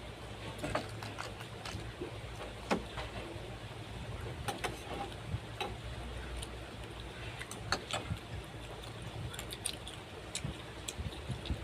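Scattered light clicks and taps, irregular and a few a second, over a steady low hum.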